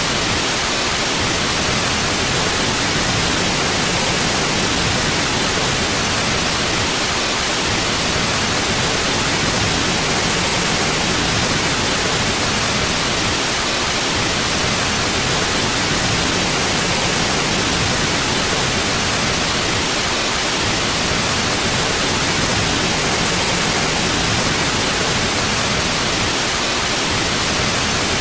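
Steady white noise: an even, unchanging hiss played continuously as a sleep and relaxation sound.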